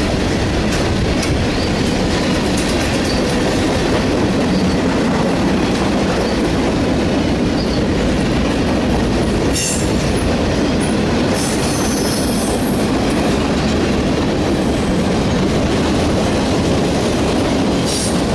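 A train rolling past close by: a steady rumble and clickety-clack of wheels on the rail joints, with brief high-pitched wheel squeals about ten and twelve seconds in.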